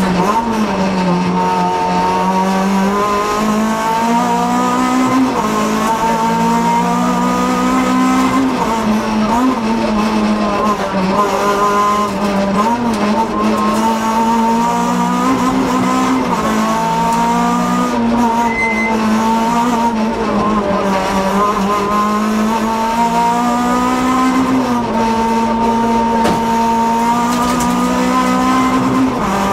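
Honda Civic group F2 rally car's four-cylinder engine, heard from inside the cabin, revving up and easing off again and again as the driver works through the gears and corners at racing pace.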